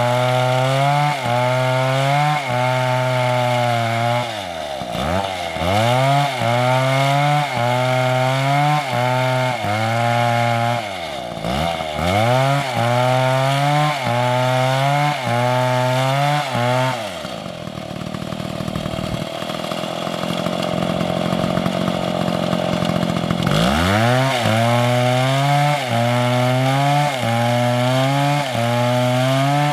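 MS720 chainsaw cutting into a big tree trunk. The engine pitch sags and recovers about once a second as the chain bites into the wood. Around two-thirds of the way through it drops to a lower, rougher run for several seconds, then revs back up and carries on cutting.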